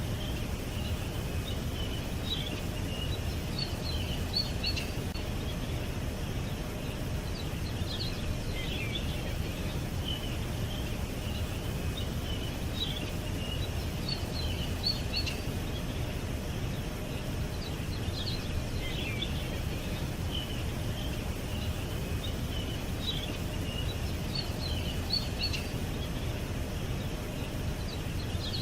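Birds chirping in short bursts every few seconds, over a steady low rumble.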